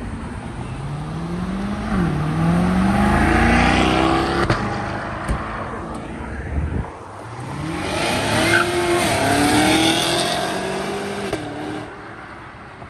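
Car engine revving hard under full acceleration, its pitch climbing, dropping sharply at a gear change about two seconds in and climbing again. A second hard pull rises from about seven seconds in and fades near the end.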